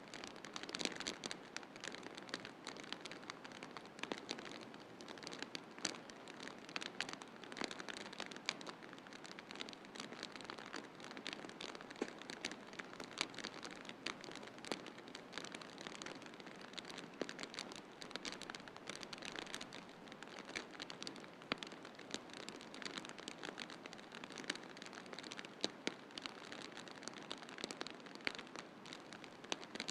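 Wood fire crackling in a fireplace: dense, irregular pops and snaps over a steady soft hiss.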